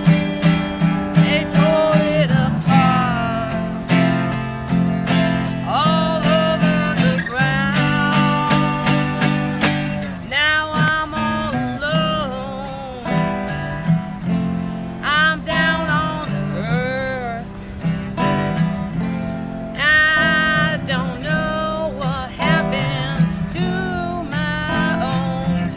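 Blues-style music: a strummed acoustic guitar with a gliding, wavering melody line over it.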